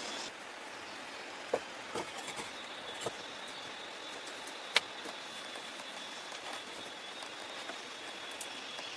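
Steady outdoor background hiss with a handful of sharp clicks or taps, the loudest nearly five seconds in, and a faint high steady tone from about two seconds on.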